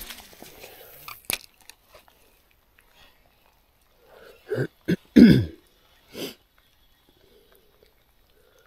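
A man clearing his throat and coughing, a short cluster of hoarse sounds with falling pitch about halfway through, followed by one more a second later. A single sharp click comes early, before them.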